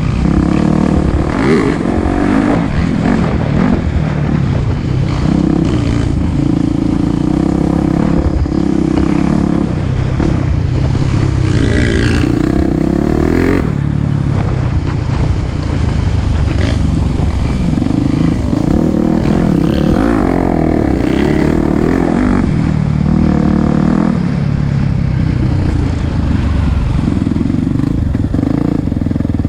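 Single-cylinder four-stroke dirt bike engine running under changing throttle on a trail ride. It revs up and down as the rider works through the trail, with a few rising sweeps as it accelerates.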